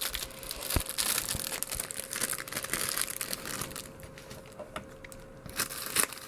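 Plastic packaging crinkling as it is handled, dense for about four seconds, then thinning to scattered crackles with a sharper crack near the end.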